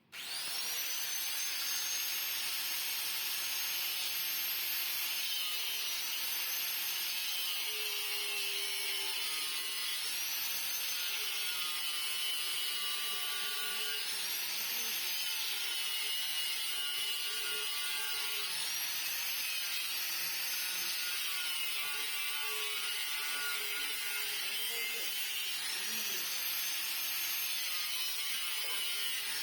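High-speed electric power tool switched on suddenly and run continuously, its motor whine dipping and recovering again and again as it is pressed into the work, then starting to wind down at the very end.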